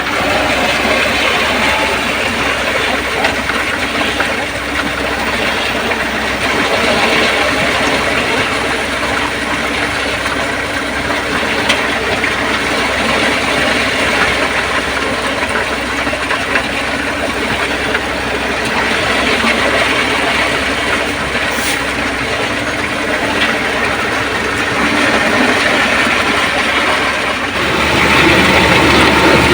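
Heavy diesel construction machinery running steadily at a concrete road pour, a dense mechanical din with hiss. It grows louder and deeper near the end.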